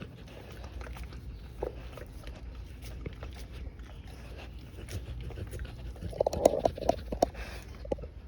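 Cane Corso dog eating, with scattered sharp clicks of chewing and a louder flurry of crunching and mouth sounds about six seconds in.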